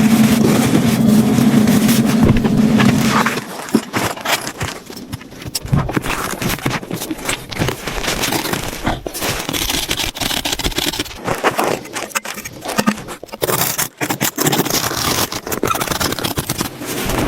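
A steady low hum that cuts off about three seconds in, followed by irregular scraping and crackling with scattered clicks.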